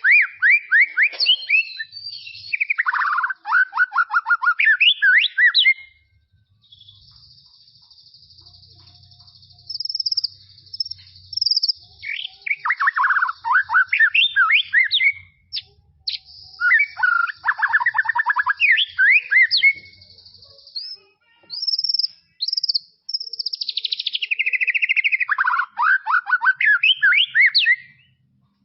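White-rumped shama (murai batu) singing: four loud phrases of rapid, repeated sweeping notes, with a high, thin, steady trill in the pauses between them.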